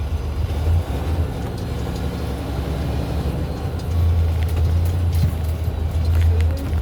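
Semi truck's diesel engine running with a steady low drone heard from inside the cab, growing louder about four seconds in.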